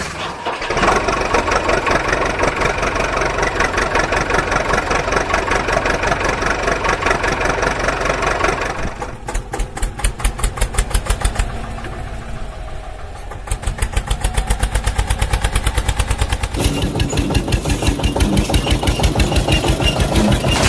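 An engine running with a steady chugging beat, changing abruptly several times as if cut between different recordings; the beat is sharpest and loudest about halfway through.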